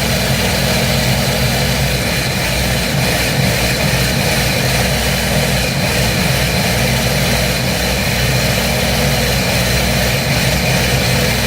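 Food processor motor running steadily, pureeing a salsa.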